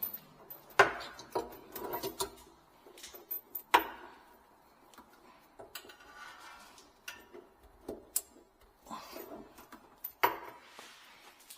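Irregular knocks and clatter of hard parts and tools being handled, with a few sharper bangs about a second in, near the middle and near the end.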